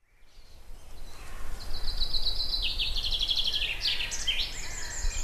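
A songbird singing outdoors, fading in: a rapid trilled phrase that steps down in pitch, ending in a flourish, then shorter high notes. A steady low rumble lies underneath.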